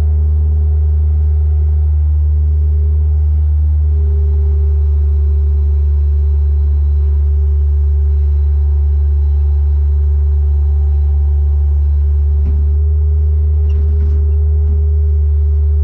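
Bobcat skid-steer loader's engine running at a steady speed, a constant low drone with a steady higher hum over it.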